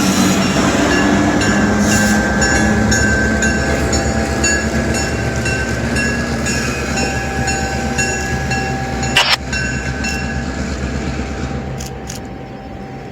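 EMD GP9 diesel locomotive with its 16-cylinder two-stroke 567 engine, running with a steady pulsing drone as the train goes by, gradually fading as it moves off. A single sharp click about nine seconds in.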